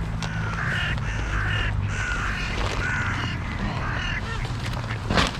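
A crow calling over and over in quick short calls, with a steady low hum underneath and a single sharp knock near the end.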